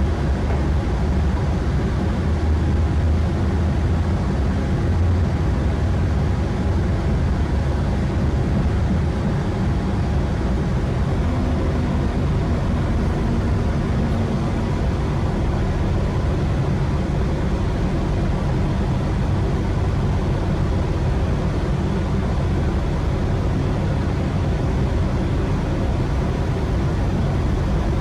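Steady rumble and rail noise of a GWR diesel multiple unit running along the line, heard from inside the carriage, with a faint steady whine that fades out about halfway through.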